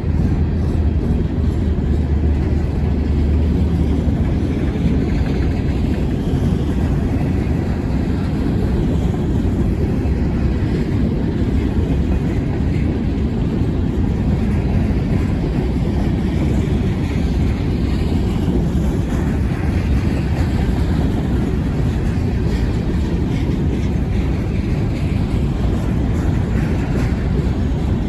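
Wheeling and Lake Erie freight train rolling past, a steady low rumble of wheels on rail.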